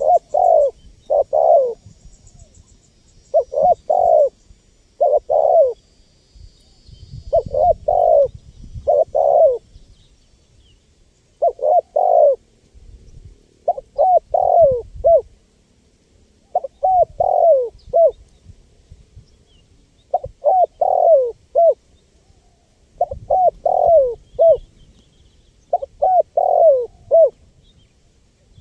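Spotted dove (tekukur) cooing its song over and over: short phrases of two to five falling coos, one every two to three seconds, about a dozen in all.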